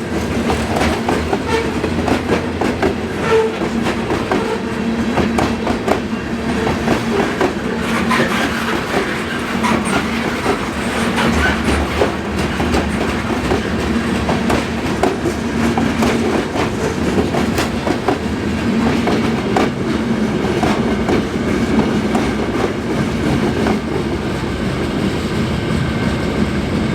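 A freight train's cars rolling past at close range, a steady rumble with the repeated clickety-clack of wheels going over rail joints.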